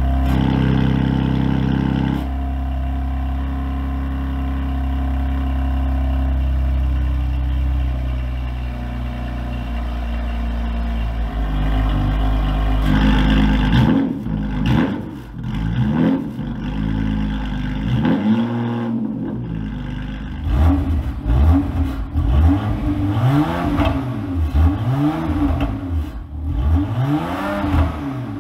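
BMW M3 Competition's twin-turbo inline-six (S55) with stock downpipes, idling with the exhaust valves closed, its idle dropping about two seconds in and settling lower. About halfway through, the valves open and the engine is blipped in a series of short revs, each rising and falling back.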